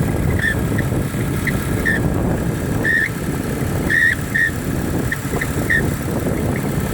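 Mercedes-Benz Vito engine running at about 1400 rpm with short, high-pitched squeaks that come and go irregularly, several times a second at their busiest, over the steady engine noise. It is an unexplained squeal of unknown origin that the owner hears at around this engine speed.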